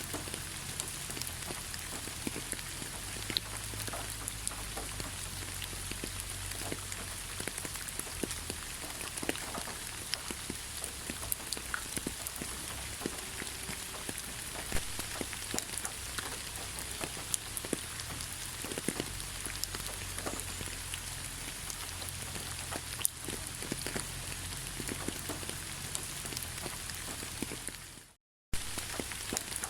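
Steady rainfall, with many separate drops striking a surface over an even hiss. The sound cuts out completely for a moment near the end, then resumes.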